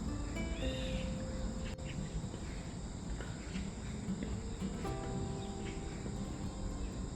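Autumn grass insects (crickets) trilling in a steady, high, continuous chorus over a low rumble of city background noise, with a brief chirp about a second in.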